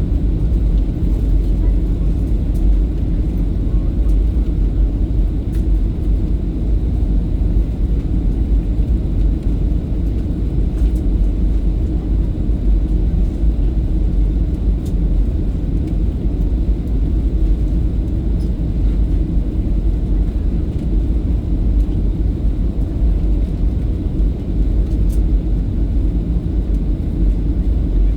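Steady low rumble of airliner engines and airflow heard inside the passenger cabin on approach to landing, with a few faint clicks.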